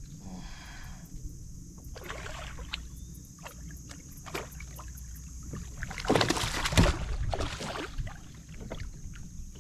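Splashing and knocking around a fishing kayak as a bass is brought in, in irregular bursts with the loudest cluster about six to eight seconds in.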